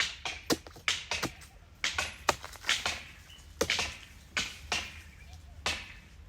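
Sharp hand blade chopping into the dry frond bases and fibre of a date palm trunk, a quick irregular series of cutting strikes, a dozen or more, sometimes two or three close together.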